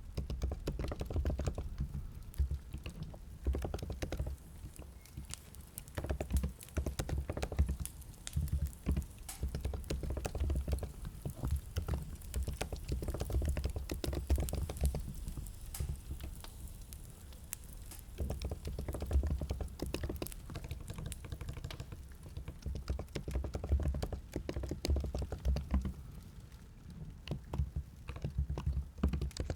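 Typing on a computer keyboard in fast runs of key clicks with low thuds, broken by short pauses.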